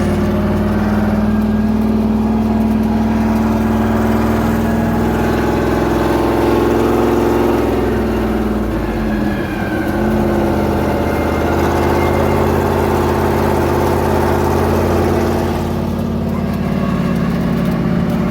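Monster truck engine running at a fairly steady speed, its pitch dipping and coming back up about halfway through.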